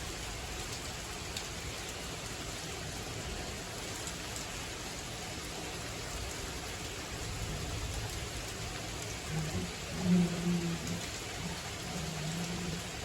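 Steady rain falling, an even hiss with a few faint ticks. About ten seconds in, a short low hum rises over it for a few seconds and fades.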